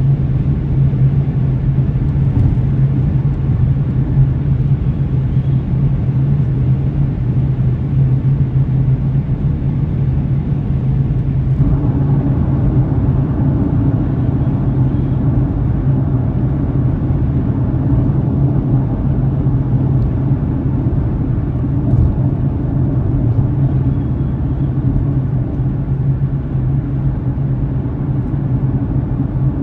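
Steady rumble of a car on the road, mostly engine and tyre noise picked up by a dashcam, with a deep steady hum underneath. About twelve seconds in the noise grows fuller and stays that way.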